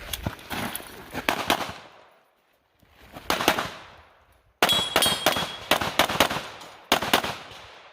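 Rapid strings of shots fired in quick succession during a practical-shooting course of fire: a string at the start, a pause about two seconds in, a short burst, then a longer fast string in the second half. A brief ringing tone is heard inside the longer string.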